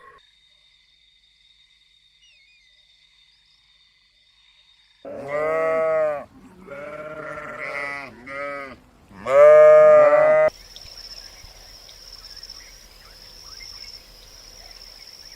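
A farm animal bleating four times in a row, loud wavering calls over about five seconds, the last the loudest. A faint steady high-pitched tone is heard before and after the calls.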